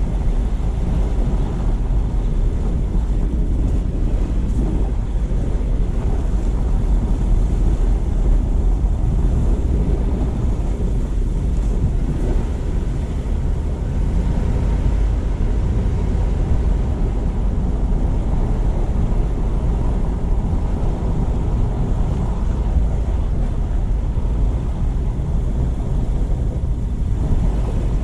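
A car driving: steady low rumble of road and wind noise.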